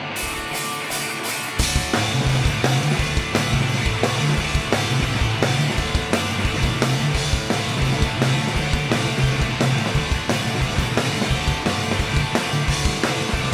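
Live rock band playing an instrumental passage with no vocals. Electric guitar plays alone at first, then drums and bass come in about a second and a half in with a driving, steady beat.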